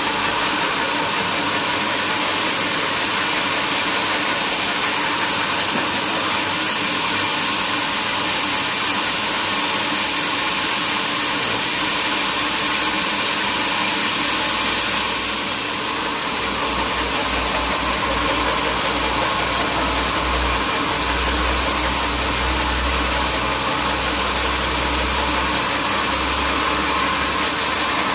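Sawmill machinery running steadily with a loud hiss and hum; about halfway through the sound shifts and a low rumble joins in.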